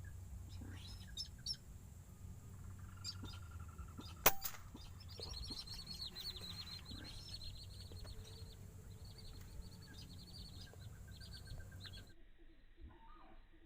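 Small birds chirping, with a fast, high twittering trill from about five to eight seconds in. About four seconds in comes a single sharp crack, the loudest sound.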